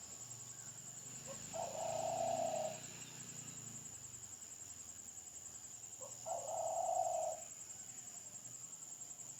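A bird calling twice, a few seconds apart. Each call is a low, drawn-out note about a second long, with a short note just before it.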